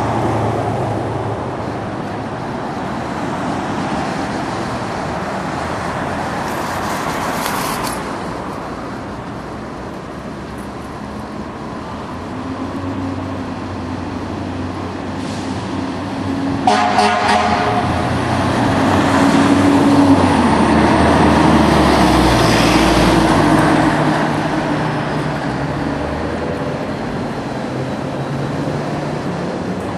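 Fire trucks' diesel engines rumbling as they pull out on a call, with air horn blasts about 17 seconds in and a siren winding up soon after.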